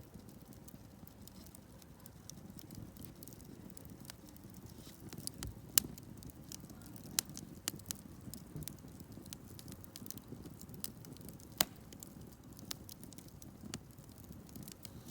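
Wood campfire burning: a steady low rush of flame under frequent sharp crackles and pops of the burning wood, the loudest pops about six and eleven and a half seconds in.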